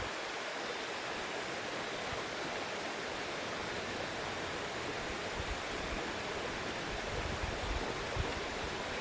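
Steady, even rushing noise with a few soft low thumps in the second half.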